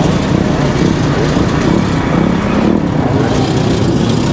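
Small gas scooter engines running in a group ride, a loud, steady engine noise with wavering pitch.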